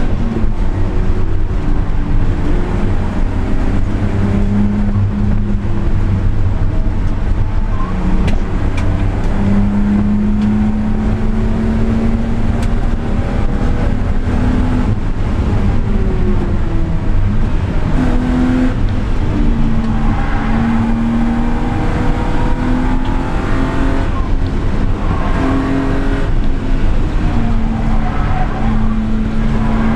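Car engine and exhaust under hard driving, heard onboard. The note holds fairly level, with short breaks and small steps in pitch.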